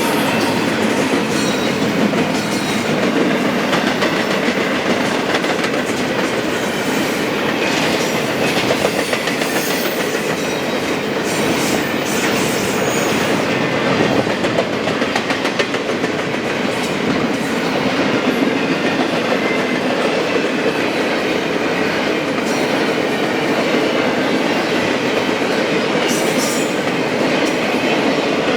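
Train cars rolling past at speed: a steady, loud rumble and rattle, with wheels clicking over the rail joints.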